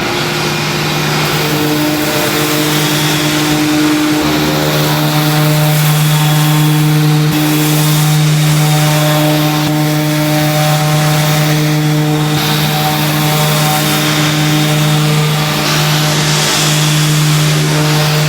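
Production-line machinery running: a loud, steady motor hum with several higher steady tones over a constant hiss, starting up at the very beginning.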